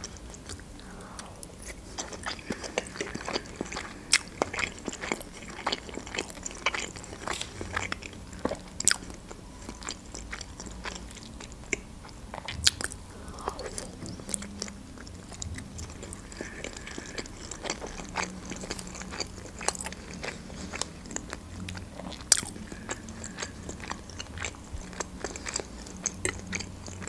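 Chewing and wet mouth sounds of gyurza, soft meat-filled dumplings, being eaten from a fork, with frequent short clicks throughout.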